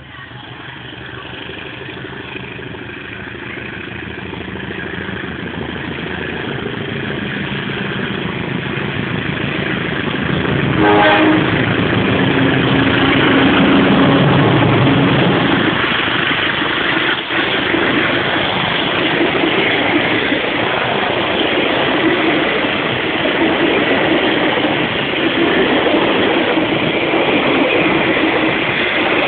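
A train approaching and growing steadily louder. It sounds a short horn blast about a third of the way in, then passes close by with loud wheel-on-rail noise and clatter.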